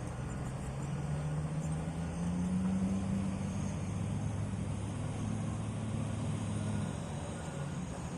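Heavy diesel engine of a mining earthmover running steadily, its pitch rising slightly about two seconds in and the sound easing a little near the end.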